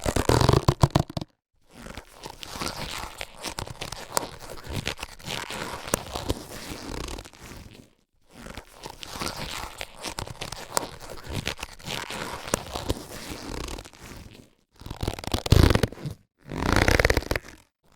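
Latex surgical gloves being handled, rubbed and stretched: a dense crackle full of small clicks for several seconds at a time, broken by short pauses, with louder, fuller bursts at the start and from about three seconds before the end.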